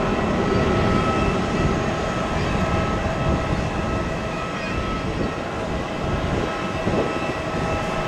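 Jet airliner engines running: a steady roar with a high, steady whine running through it.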